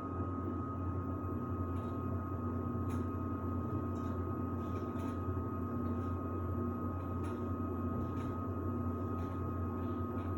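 Samsung WD70T4047CE washer-dryer running: a steady low hum with a thin high whine over it, and faint light ticks every second or so.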